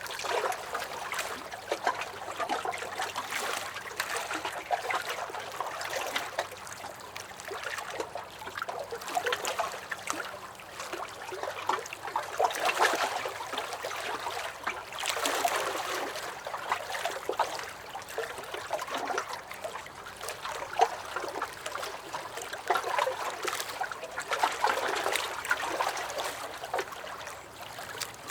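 Small lake waves lapping and splashing against a dock, a continuous irregular slosh with frequent small slaps and gurgles that swell and ease every few seconds.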